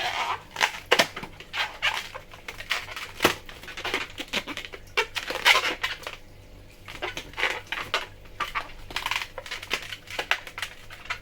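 Modelling balloons being twisted and handled: irregular rubbery squeaks and rubbing strokes, a few at a time with short pauses.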